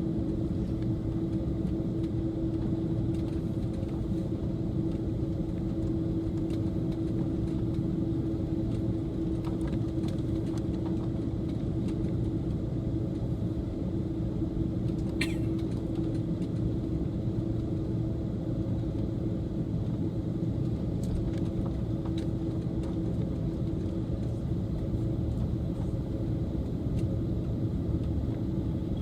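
Steady cabin rumble inside an Airbus A330 on the ground before takeoff, its jet engines at idle, with a constant low hum. One sharp click about fifteen seconds in.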